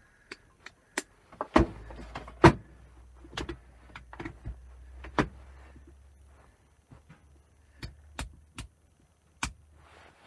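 An electric heater being handled and switched: a string of sharp clicks and knocks, the loudest two about one and a half and two and a half seconds in, with a low hum from the heater running for a few seconds in the first half. Its faulty connection makes it cut in and out.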